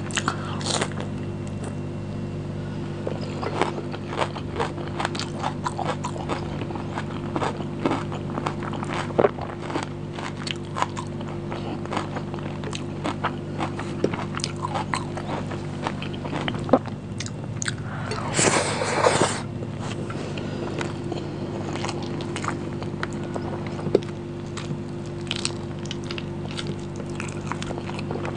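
Close-miked eating: wet chewing and biting clicks of someone eating biryani with her hands, with a crunch of raw onion near the start. A denser burst of crunching comes about two-thirds of the way through, over a steady low hum.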